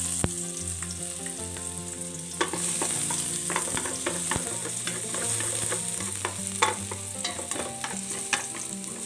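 Minced garlic and shallots sizzling in hot cooking oil in an aluminium pot over low heat, with frequent clicks and scrapes of a utensil stirring against the metal.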